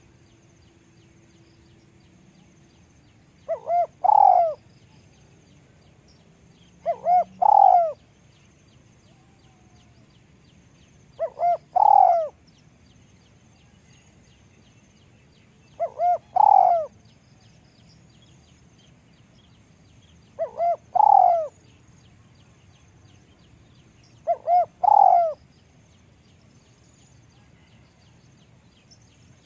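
Spotted dove cooing: six calls about four seconds apart, each made of two short notes followed by a longer, louder note.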